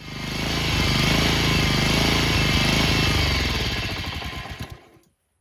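Honda HRX lawn mower's single-cylinder four-stroke engine running fast with a rapid even firing beat, its revs wavering slightly up and down, fading and then cutting off about five seconds in. The hunting in revs is a fuel problem, which the owner puts down to poor fuel, dirt carried into the carburetor, or a damaged main jet.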